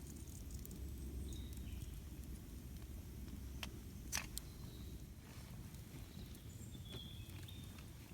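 Campfire burning with a steady low rumble and scattered crackles, a few sharp pops about three and a half to four and a half seconds in. Faint short bird chirps come and go, about a second and a half in, four and a half seconds in and near the end.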